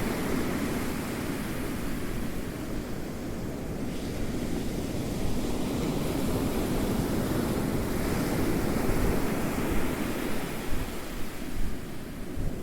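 Ocean surf rolling in and drawing back, a continuous wash of noise that swells and eases in two slow surges, one at the start and one through the middle.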